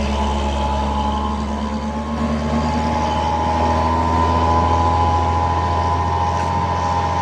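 Heavy truck's diesel engine running steadily, a low drone with a steady high whine above it, swelling slightly in the middle.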